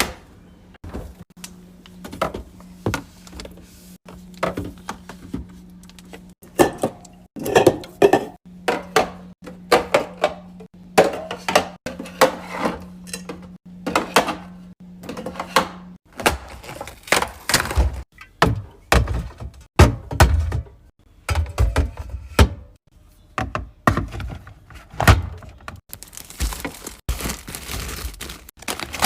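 Groceries being handled and set into a fridge: a busy run of knocks, thunks and clatters of containers and packaging, with a steady low hum that stops about halfway through.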